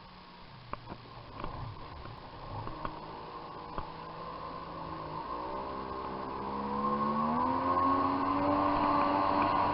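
Jet ski engine running low with a few light knocks, then revving up about halfway in, its pitch rising and settling into a louder, steady run as it gets under way.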